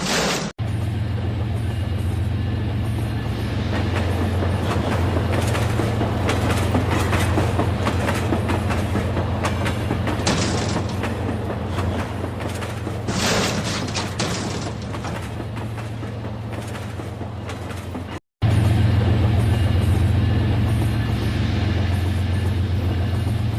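Battery-powered Rail King toy train running on its plastic track: a steady motor hum with rapid clicking of the wheels and cars over the track. The sound cuts out briefly twice.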